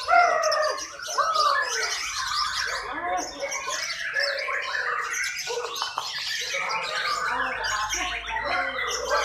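Songbirds chirping and squawking without pause, in a busy overlapping mix of calls that opens with a few arching calls, each rising and then falling in pitch.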